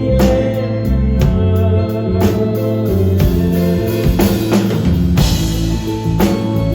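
Live rock band playing an instrumental passage: full drum kit with regular hits under sustained organ-like keyboard chords and guitar.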